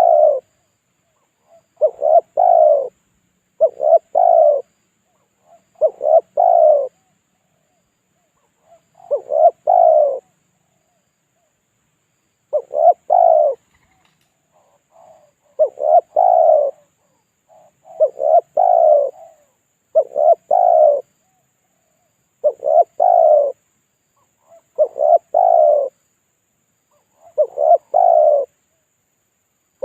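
Spotted dove cooing its pikat lure call: short phrases of a few low coos, repeated about every two to three seconds. This is the call played to draw in wild doves.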